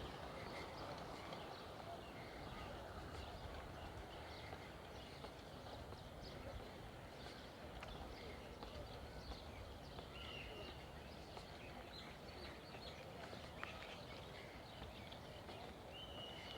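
Faint outdoor ambience with a few short bird chirps over a steady background hum, plus scattered small clicks.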